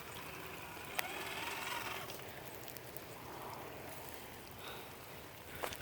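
Traxxas TRX-4 radio-controlled crawler's electric motor and drivetrain whirring in low range as it crawls through wet mud, over a steady hiss of rain. A sharp click about a second in.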